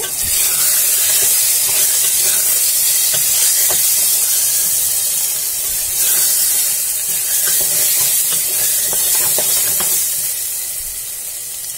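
Onion-tomato masala with turmeric and red chilli powder sizzling in hot oil in an aluminium pressure cooker, stirred with a wooden spatula. A steady frying hiss, with scattered scrapes and taps of the spatula against the pot, easing slightly near the end.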